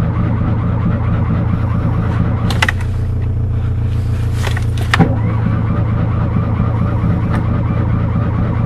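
Fiat 126's two-cylinder engine running steadily with a low, even rumble, with a sharp click about two and a half seconds in and a louder knock at about five seconds.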